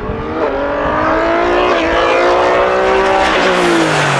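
Hillclimb racing car at full throttle going past. The engine note climbs in steps, then falls sharply in the last second as the car goes by.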